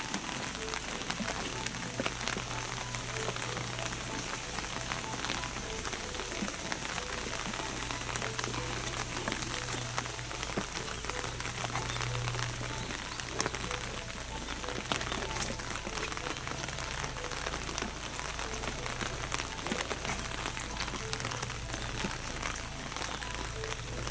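Steady rain falling on a wet road: a constant hiss dotted with many small, sharp drop ticks.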